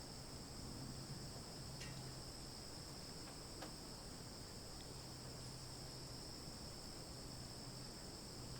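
Steady, high-pitched drone of chorusing insects, with a faint low hum underneath and a few soft clicks.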